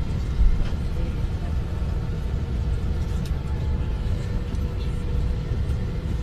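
Steady low rumble of airliner cabin noise, with a faint steady hum above it.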